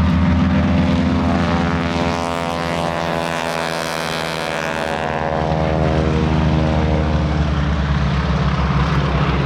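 Two Boeing Stearman Model 75 biplanes' radial engines and propellers running at high power as they climb out after takeoff. They pass by, so the engine note falls in pitch between about two and six seconds in.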